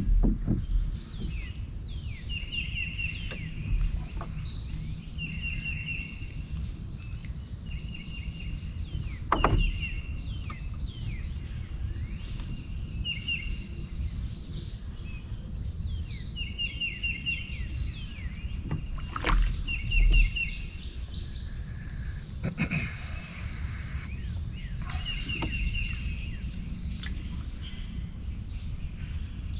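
Birds calling over and over: short runs of quick, even notes, with higher chirps above them and a low steady rumble underneath. A few sharp knocks stand out, one about a third of the way in and a pair about two-thirds of the way in.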